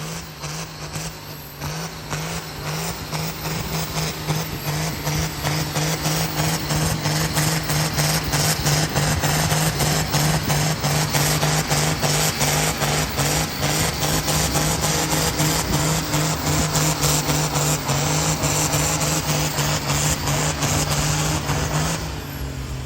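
Diesel pulling tractor's engine running hard under load, a loud steady drone held for about twenty seconds, then easing off and dropping in pitch near the end.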